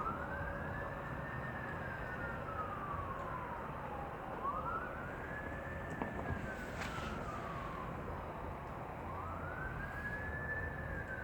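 A siren wailing in a slow cycle, each sweep rising quickly and then falling slowly, about three sweeps, over steady background noise.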